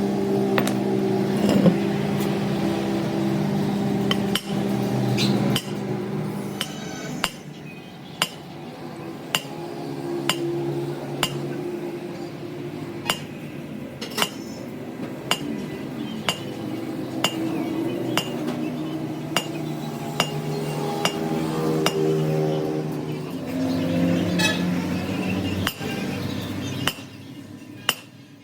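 Hammer striking metal, sharp ringing blows about once a second, over a steady machine hum in the workshop.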